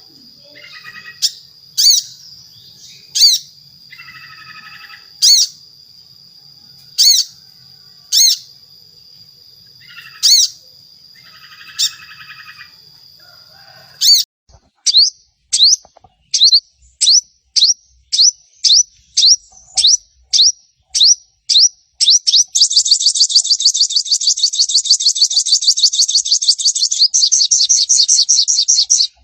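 Sunbird (sogon) calls. First come loud, sharp single notes about every one and a half seconds over a steady high whine and some soft buzzy chatter. Then come quickening chips that run into a long, fast chattering trill, the 'crecetan' and 'tembakan' calls used to lure other sogon into singing.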